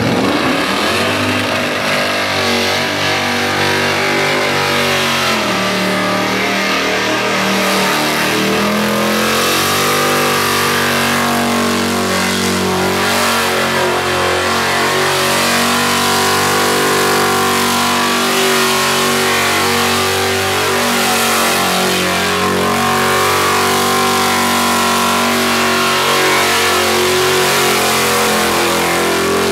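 Car engine held at high revs during a burnout, rear tyres spinning on the pad. The engine note stays mostly steady, with a brief rise in pitch several seconds in, over a constant hiss of tyre noise.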